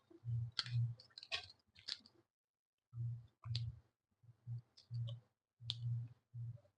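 Close-miked mouth sounds of a person eating rice with paneer curry: wet chewing, lip smacks and mouth clicks in short irregular bursts, with a brief pause a little over two seconds in.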